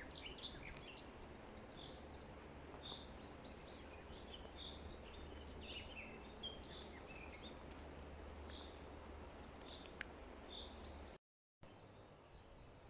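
Several small birds chirping and singing in woodland, over a steady low hum. The sound cuts out abruptly for a moment about eleven seconds in and comes back fainter.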